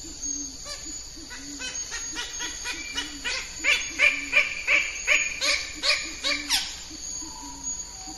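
Bird-of-paradise calling: a series of sharp repeated notes that come faster and louder through the middle and end in a falling note, with a low note repeating steadily underneath.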